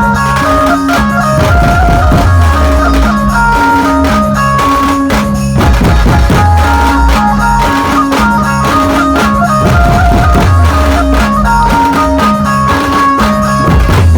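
Dhumal band music: a keyboard-led instrumental of a devotional song tune, with a stepping bass line and a steady, heavy drum beat, played loud through a DJ sound system.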